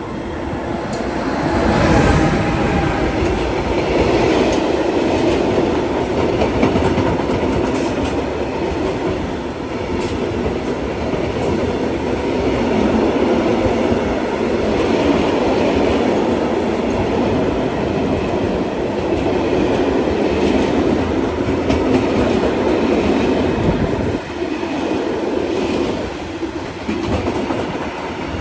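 A train passing along the track, its wheels running over the rails. The sound builds over the first two seconds, stays loud and steady for most of the time, and falls away near the end.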